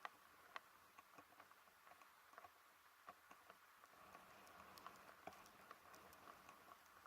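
Near silence: faint, irregular small ticks over a soft hiss.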